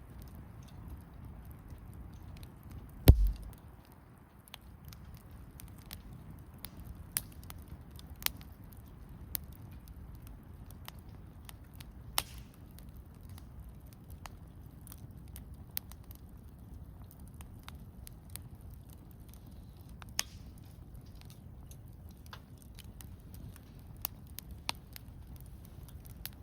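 Wood campfire burning, with sparse sharp crackles and pops over a faint steady background. About three seconds in comes one much louder pop with a low thud.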